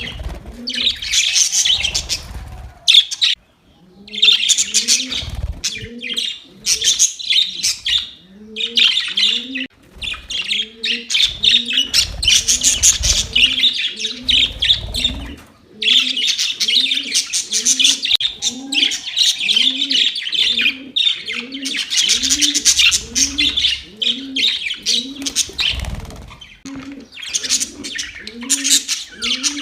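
A group of budgerigars chirping and chattering in dense runs with short pauses. Under them a low, hooked note repeats a little more than once a second.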